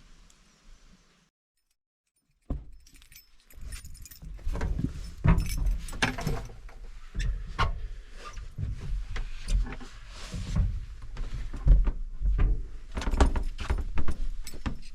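Irregular clinks, clicks and knocks of objects being handled, starting about two and a half seconds in.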